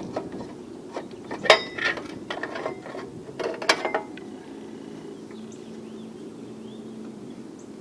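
Metal tools and engine parts clicking and knocking during hands-on work on a small engine's ignition, with two sharper knocks standing out, then the clatter stops and only a faint steady hum is left.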